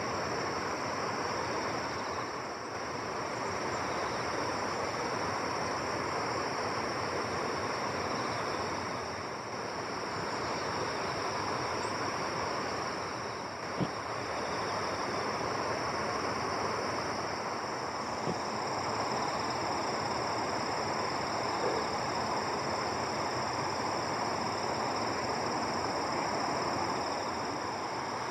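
Steady outdoor ambience: an even rushing noise with a constant high-pitched drone above it, and a single faint click about fourteen seconds in.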